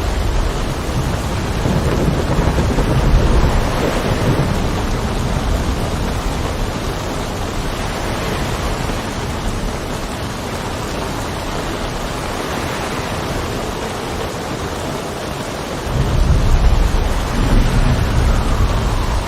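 Steady heavy rain with low rolls of thunder, the rumble swelling at the start and again near the end.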